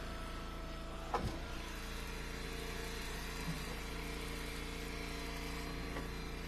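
Engine idling steadily with a constant hum, and a single sharp knock about a second in.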